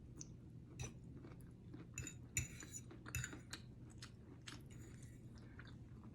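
A person chewing food, with soft irregular clicks and crunches, a few a little louder around two to three seconds in.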